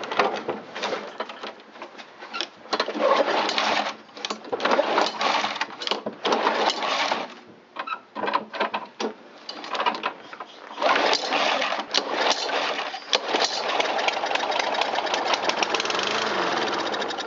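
Briggs & Stratton push-mower engine firing on carburetor cleaner sprayed into the intake. It runs in short, uneven spells with brief stops between them, then runs steadily for several seconds before dying near the end.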